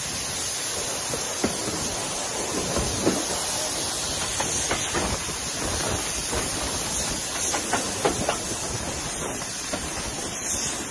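Steam-hauled passenger train, behind BR Standard Class 4MT 4-6-0 No. 75069, running along the line, heard at a carriage window: a steady rush of running noise with irregular clicks and knocks from the wheels on the rails.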